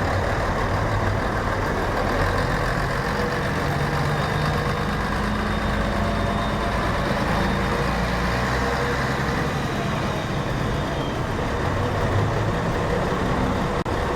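Scania K113 coach's straight-six diesel engine running under way, its pitch shifting up and down with engine speed.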